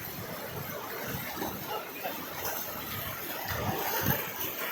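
Steady rushing noise of floodwater, with faint voices underneath.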